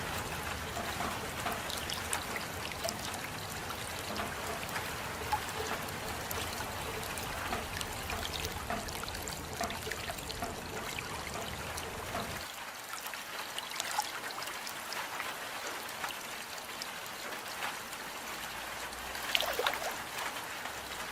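Steady rain with close drops dripping and trickling. About twelve seconds in, the low rumble underneath drops away, leaving a lighter hiss of rain. A brief louder swell comes near the end.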